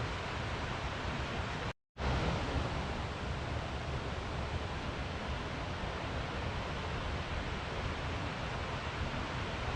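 Steady, even rushing noise, broken by a brief dead gap of total silence about two seconds in, after which it resumes unchanged.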